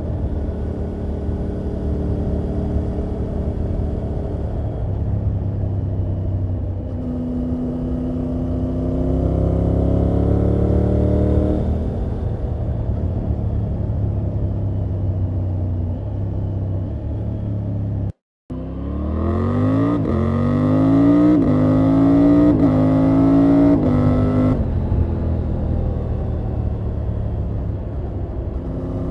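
Triumph Tiger 900 GT Pro's 888 cc three-cylinder engine and exhaust while riding: steady running with a gentle climb in revs, then, after the sound cuts out for a moment about eighteen seconds in, hard acceleration with pitch rising steeply and short dips at each upshift, before the revs drop as the throttle closes near the end.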